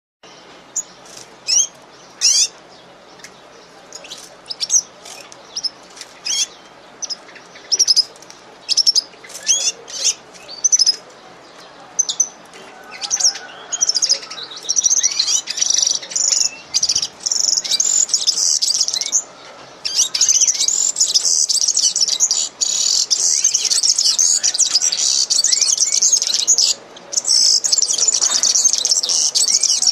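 Small birds chirping: separate sharp, high chirps at first, building from about halfway into a dense, continuous twittering of many birds at once.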